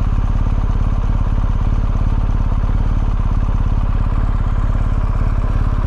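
BMW R1250GS boxer-twin motorcycle engine idling steadily, its even firing pulses unchanged in pitch.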